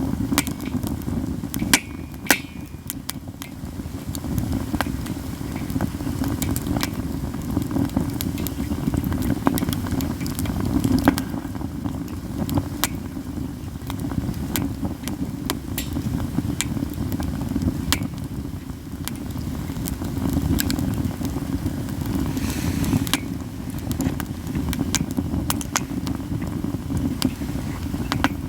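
Katsura wood burning in an open campfire, crackling all the time with irregular sharp pops, a few of them loud snaps, about two and eleven seconds in. Beneath them runs a steady low rush.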